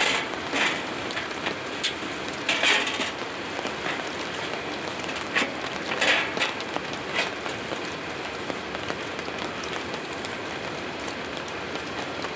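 Steady rain pattering on a surface, with louder single drops tapping now and then. The loudest come about 3 and 6 seconds in.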